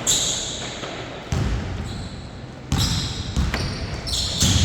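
Basketball bouncing hard on an indoor court a few times, with sharp high shoe squeaks between the bounces.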